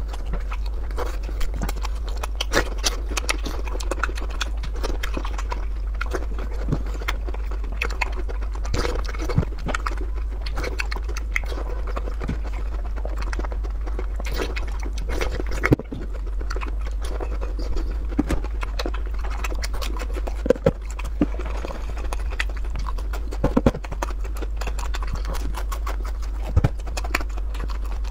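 Close-miked eating sounds: chewing and biting food, with many short sharp clicks and mouth smacks at irregular moments, over a steady low hum.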